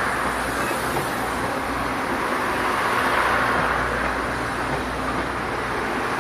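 Train rolling past close by: a steady, loud noise of wheels on rail and running gear, swelling and easing slightly as it goes.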